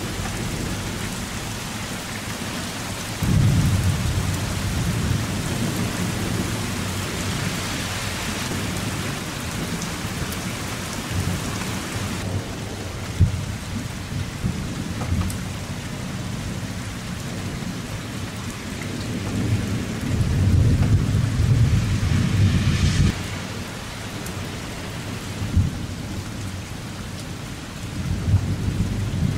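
Heavy thunderstorm rain falling steadily, with rolls of thunder rumbling twice: a few seconds in, and again about two-thirds of the way through.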